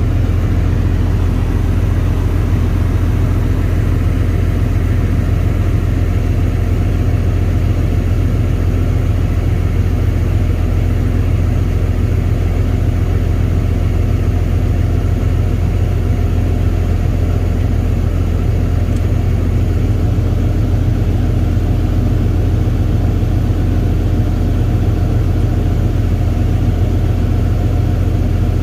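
Tractor engine running steadily under way, a loud, even low drone with no change in speed.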